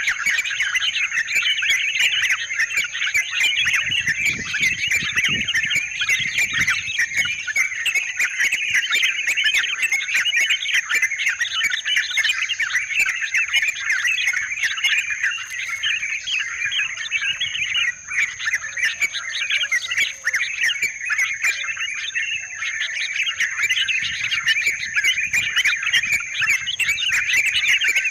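Yellow-vented bulbuls (trucukan) calling in a dense, continuous chorus of chattering, bubbling notes, with a steady high-pitched tone running underneath.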